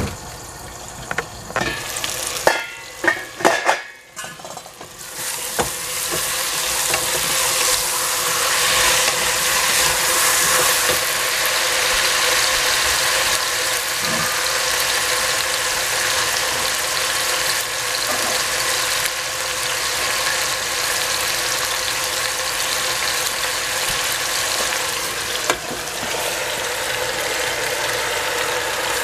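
A few knocks and clanks of a stainless steel pot and its lid, then from about five seconds in a steady sizzle of courgette and onion frying in hot oil in the pot, stirred with a wooden spatula.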